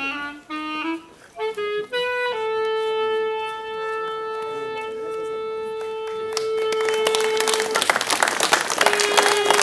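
Live music: a solo melody of short notes, then one long held note of several seconds. About two-thirds of the way through, a dense patter of clapping rises over it and grows louder.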